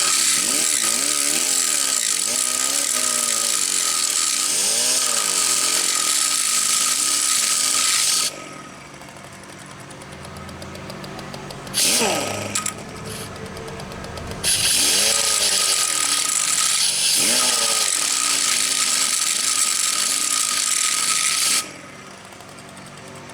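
Small power grinder grinding metal high spots off a small-engine magneto's coil plate and armature, in two long runs of several seconds with a short burst between them. The motor's pitch sags and rises as the wheel bites.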